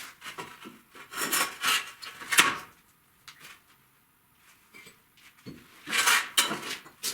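Scraping and rubbing from bricklaying work, in several short bursts about a second in and again near six seconds, with a quiet gap between.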